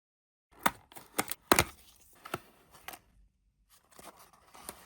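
Plastic packaging being handled and opened: a run of sharp clicks and rustles, a short pause about three seconds in, then more rustling.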